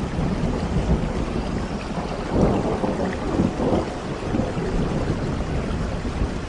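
Steady rain with rolling thunder. The rumble is heaviest about two to four seconds in.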